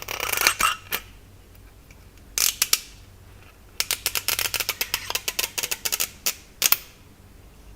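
Plastic shrink-wrap being peeled off a Poké Ball card tin, crinkling and crackling in short bursts, with a long run of rapid crackles in the second half.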